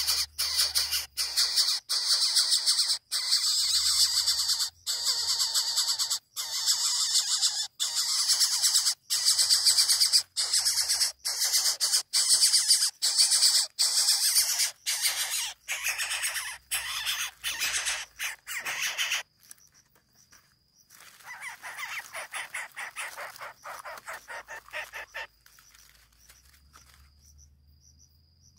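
Coucal chick's harsh, hissing begging calls, repeated rapidly in long bouts, breaking off about two-thirds through and returning in a weaker bout. A steady high insect trill comes in after the calls stop.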